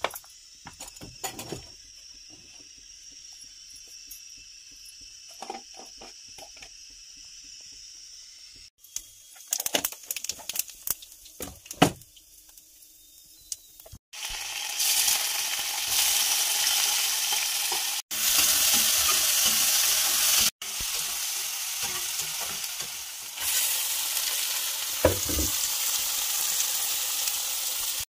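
Hot oil in a steel wok, quiet at first apart from a few metal clinks, then a loud sizzle about halfway through as chopped onions hit the oil. Onions and raw chicken pieces keep frying and sizzling after that, with a few sudden short breaks.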